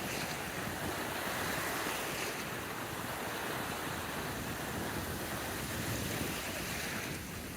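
Steady ocean surf and wind, with wind buffeting the microphone.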